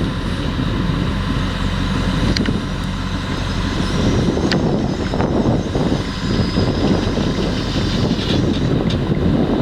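Potato harvesting machinery running steadily under load: a deep diesel engine rumble with mechanical clatter and a few sharp clicks.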